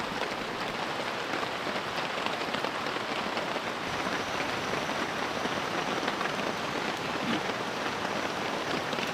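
Steady rain falling, with many small drops pattering on the camp tarp overhead.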